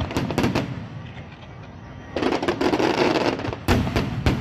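Aerial fireworks going off: a dense crackling burst fades out early, another crackling burst starts about two seconds in, and two sharp booms follow near the end.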